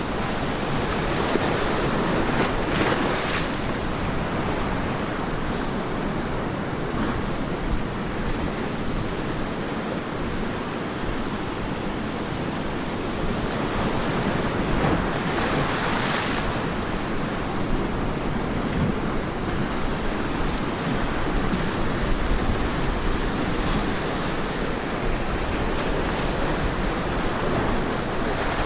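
Ocean waves breaking and washing on a beach, a continuous rushing surf with two stronger breakers, one a couple of seconds in and one about halfway through. Some wind rumble on the microphone.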